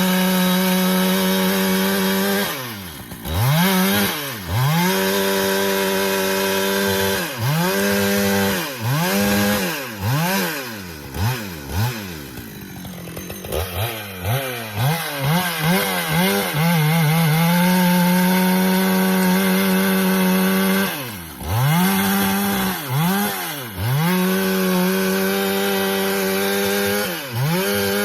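Husqvarna two-stroke chainsaw noodling pecan rounds. It is held at full throttle for stretches and repeatedly let off, the note dropping and revving back up. Near the middle it falls to a low, rough idle for a couple of seconds, then blips and climbs back to full speed.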